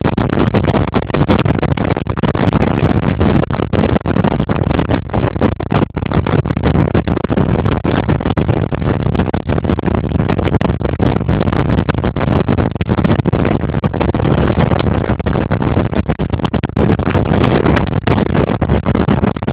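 Motorboat under way, heard from on board: a loud, continuous rush of engine and water noise that flutters and chops throughout.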